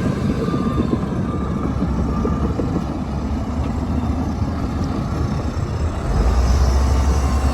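Heavy diesel earthmoving machinery running with a steady low rumble, which gets louder about six seconds in as the engine comes under more load.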